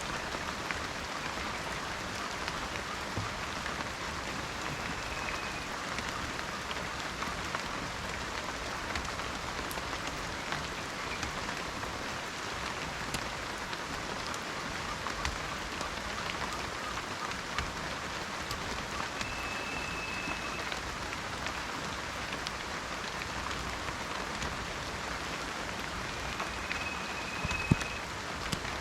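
Steady rain falling in a forest, a constant hiss full of individual drops ticking close by, with one sharper drop tap near the end. A faint thin high tone comes and goes three times.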